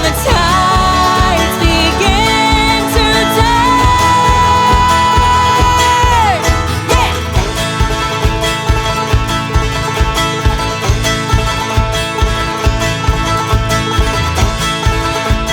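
Alternative rock band recording featuring banjo over a steady beat. A long held high note runs through the first half and bends down at its end.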